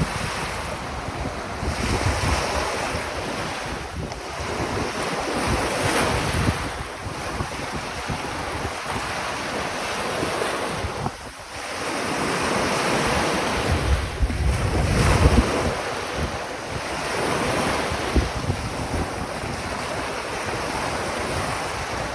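Small Caspian Sea waves with whitecaps breaking and washing up a sandy shore, swelling and ebbing every few seconds, with wind buffeting the microphone.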